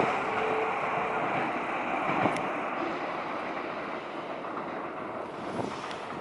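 Train running noise: a steady rush that slowly fades, with a single clack about two seconds in.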